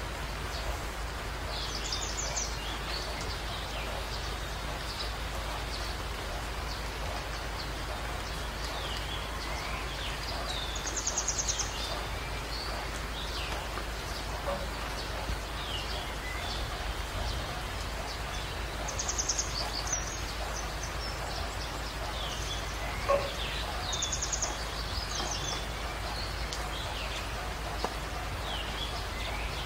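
Small birds chirping over and over, with a rapid high trill now and then, over a steady hiss.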